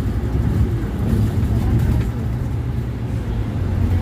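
Scania Citywide bus's natural-gas engine running with a steady low drone, with faint voices underneath.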